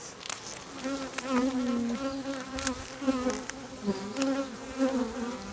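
Honey bees buzzing around an open hive: several overlapping buzzes that waver in pitch and swell and fade.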